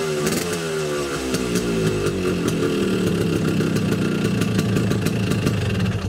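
Tuned two-stroke Vespa engine with a racing box exhaust, its pitch falling off from high revs over the first two seconds, then running steadily under load.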